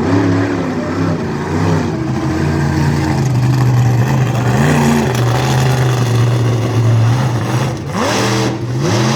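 Monster truck engine running loud and steady at high revs, then revved up twice in quick succession near the end.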